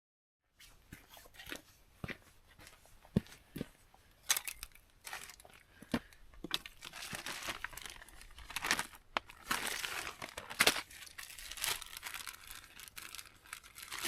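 Crinkling and tearing of a fire-starter block's packaging being opened by hand, with scattered sharp knocks and clicks. It grows busier about halfway through.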